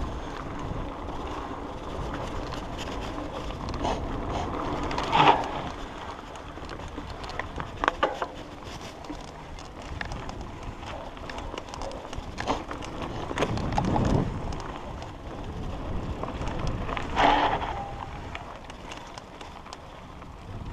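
Mountain bike ridden over a dirt trail: tyre and drivetrain noise, rattling and wind on the helmet camera, with a few louder knocks and jolts from bumps, near 5 s and 17 s loudest.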